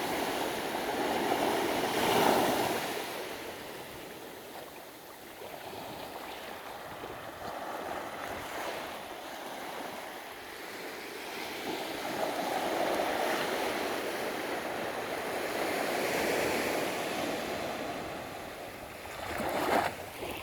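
Ocean surf: waves breaking and washing up the beach, swelling and fading every few seconds, loudest about two seconds in and again just before the end.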